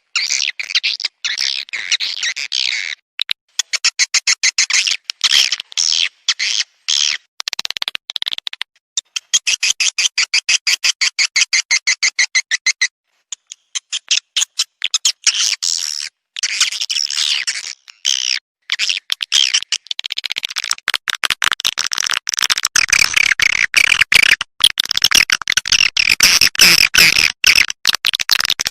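Recorded swiftlet calls played as a lure sound: fast, high chattering twitters and trilled chirps, with a run of rapid evenly spaced clicking pulses near the middle and denser chatter in the last third. This is the calling sound swiftlet-house owners play to draw swiftlets in to nest.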